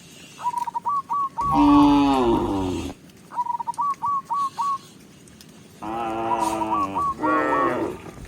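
Cows mooing: one long, loud moo about a second and a half in, then two more moos back to back near the end. Between the moos there are short series of repeated high whistled notes.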